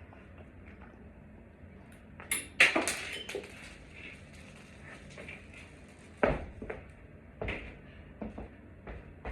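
Clattering and knocking of hard objects being handled: a loud burst of clatter about two to three seconds in, then single knocks every second or so.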